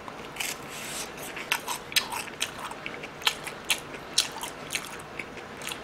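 Crisp crunching as a battered, deep-fried shrimp is bitten and chewed: a string of short, sharp crackles at about two a second.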